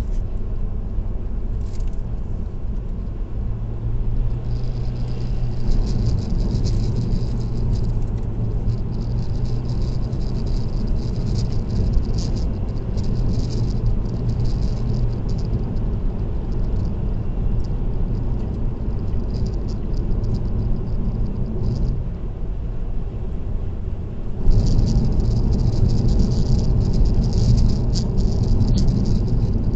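A car driving on an expressway: a steady low rumble of road and tyre noise, with a fine, continuous rattle over it. It gets louder about 24 seconds in.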